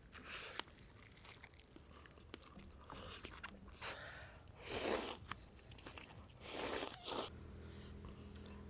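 Close-miked eating sounds: chewing and biting, with two louder noisy bursts about five and six and a half seconds in.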